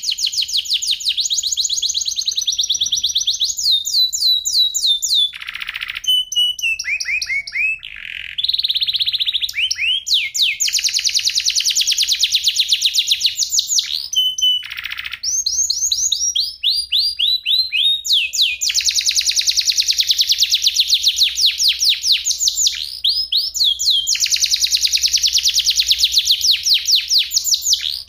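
A domestic canary singing a long, continuous song of fast trills: rapid runs of repeated high notes, some series sliding down in pitch, broken only by brief pauses between phrases.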